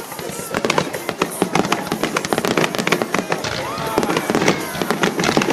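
Fireworks bursting in quick succession: a dense run of sharp pops and crackles that thickens about half a second in, with music playing under them.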